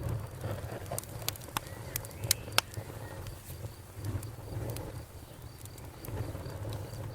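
Wood fire burning in a fireplace: a steady low rumble of flames with irregular crackles and several sharp pops, most between one and three seconds in.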